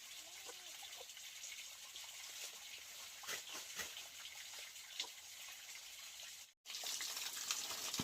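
Running water hissing steadily, with scattered small clicks and knocks. It cuts out briefly about six and a half seconds in and comes back louder.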